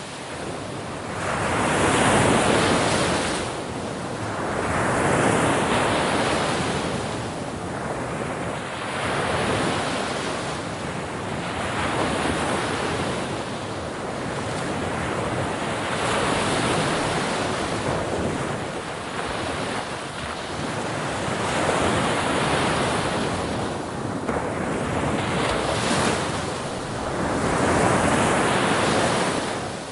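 Ocean waves breaking on a shore: a steady wash of surf that swells and recedes every three to four seconds.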